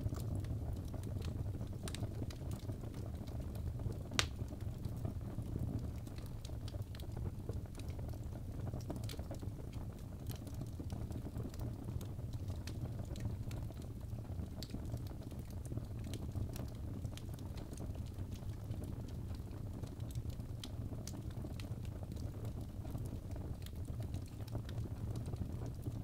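Birch logs burning in a fireplace: a steady low rumble of flame with irregular crackles and snaps, one louder pop about four seconds in.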